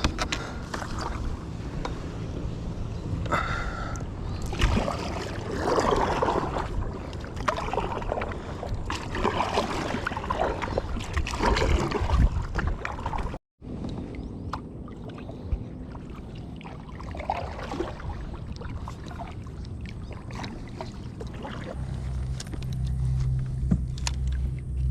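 Water and handling sounds from a kayak: uneven sloshing and splashing with scattered knocks, broken by a sudden dropout about halfway. A steady low engine drone sets in near the end.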